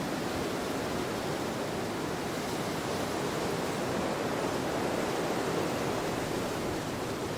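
Wind blowing across an open field: a steady rushing noise that swells a little about halfway through.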